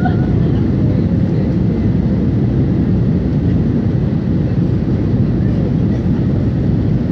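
Steady cabin noise of an Airbus A321 in flight: an even, unchanging rumble of engines and rushing air heard from inside the cabin.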